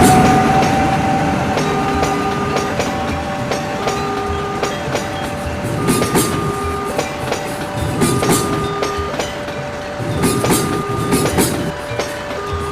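Train wagons rolling past and clattering over the rail joints, at a fairly steady level with louder bursts of clacks every couple of seconds, while a repeating electronic warning chime of a few stepped notes sounds over them.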